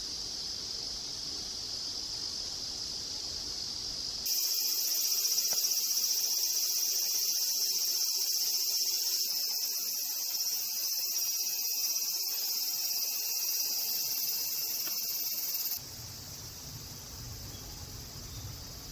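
Insects singing in a steady, high-pitched chorus, which grows louder about four seconds in and drops back near sixteen seconds.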